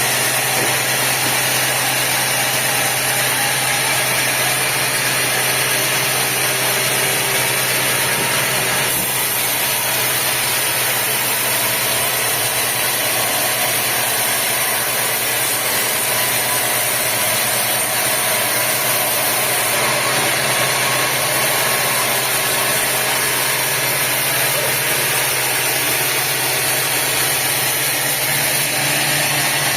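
Sawmill machinery running steadily: a constant engine-like drone with a low hum and even hiss, without breaks.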